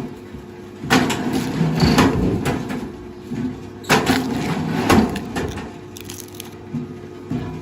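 Wood cracking and crunching under a heavy machine, four sharp cracks about a second apart over the machine's steady low engine hum.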